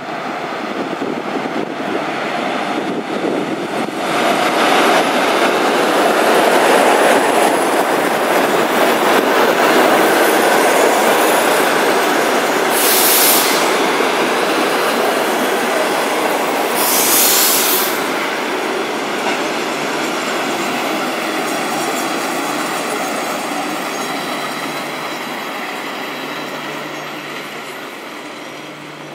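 ChS2 electric locomotive and its passenger carriages rolling into a station, wheels rumbling and clattering on the rails. The noise grows loud from about four seconds in, then eases off over the last ten seconds as the train slows. Two short, loud hisses come near the middle, a few seconds apart.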